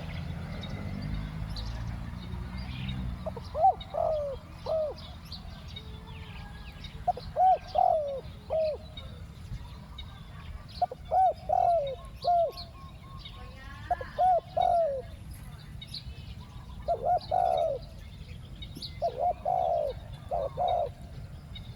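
Spotted dove cooing: six phrases of a few short, low coo notes, repeated every few seconds.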